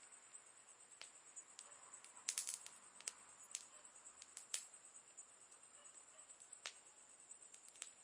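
Campfire crackling: burning wood giving off sharp, irregular pops, with a quick cluster of snaps a little over two seconds in, over a steady high-pitched hiss.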